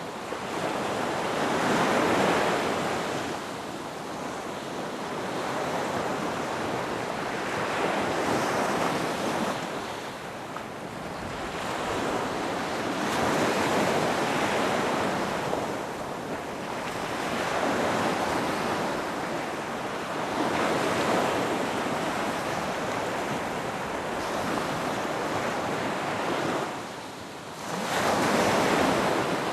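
Ocean waves breaking on a beach, the surf swelling and ebbing roughly every four to six seconds, with wind on the microphone. A sharp dip shortly before the end is followed by the loudest wave.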